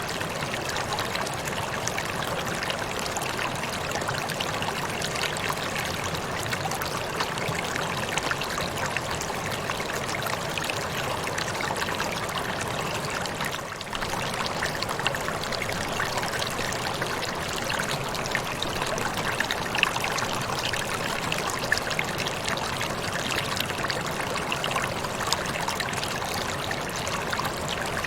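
Water falling and running over rocks: a steady rushing of a waterfall and stream, with small splashes and gurgles through it.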